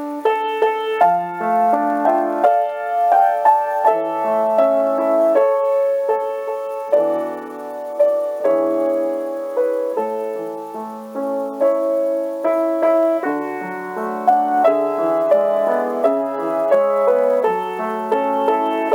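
Solo piano music of an elegy: single notes and chords struck one after another and left to ring, all in the middle and upper range with no deep bass.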